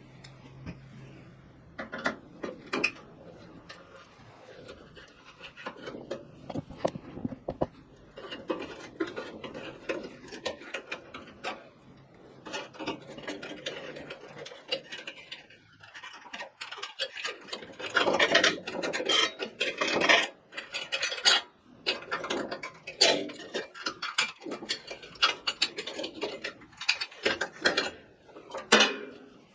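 Hands working on a kerosene heater's metal parts: irregular clicks, scrapes and rubbing, getting louder and busier about halfway through.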